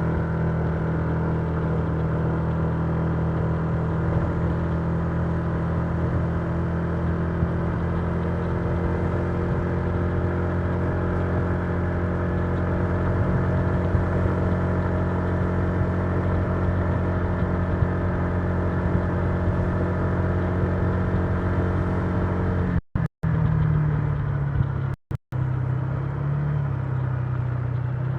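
Honda Giorno 125 scooter's single-cylinder engine running steadily at cruising speed, heard from the rider's position. The sound cuts out briefly twice near the end, and the engine note sits a little lower after the first cut.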